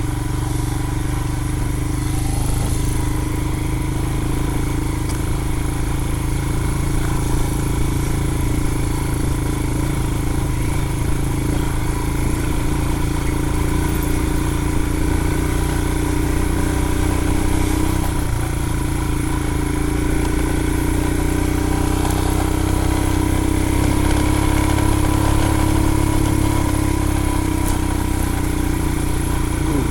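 Royal Enfield Himalayan's single-cylinder engine running steadily as the motorcycle picks its way along a rough trail, its note dipping briefly once a little past halfway.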